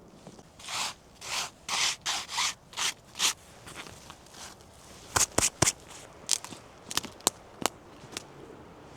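About six rasping, scraping strokes, then a run of sharp knocks and clicks, as of handwork on wood.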